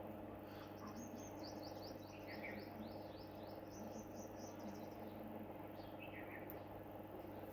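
Small bird chirping: a fast run of short, high, downward chirps for about four seconds, with a lower short call repeated every few seconds, over a steady low hum.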